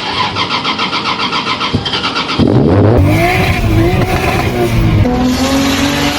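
Toyota Cressida MX83's engine cranking on the starter with an even chugging rhythm, then catching about two and a half seconds in and revving up and down.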